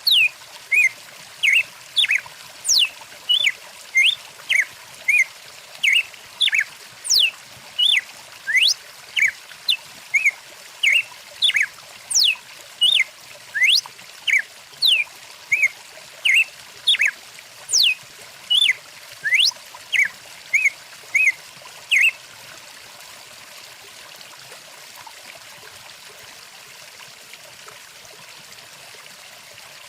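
Songbird calls, short whistled chirps and notes that sweep steeply up or down, about two a second and louder than the water, stopping about three quarters of the way through. Beneath them a stream or small waterfall rushes steadily.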